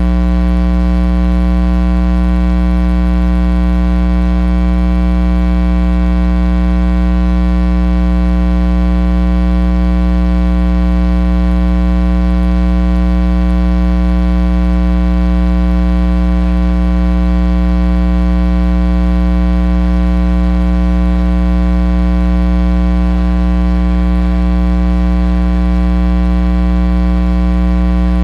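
Loud, steady electrical mains hum: a low buzz with a stack of overtones that never changes.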